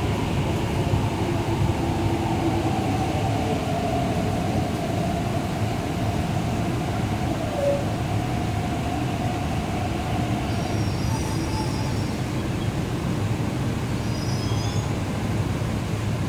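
An MTR East Rail Line R-train electric multiple unit draws into the platform and slows to a stop. The wheels and traction motors give a steady rumble, with a motor tone that sinks slightly as the train slows. A couple of brief high squeals come about two-thirds of the way through and again near the end.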